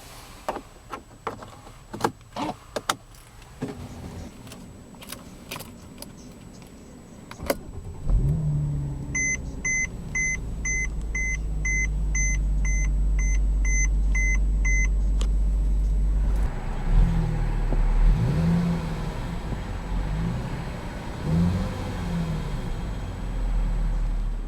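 Key clicks, then the 2013 Mercedes E350's 3.5-litre V6 is started about eight seconds in and settles into a steady idle. A dashboard warning chime beeps about twice a second for some six seconds. Later the engine is revved in several short blips and drops back to idle.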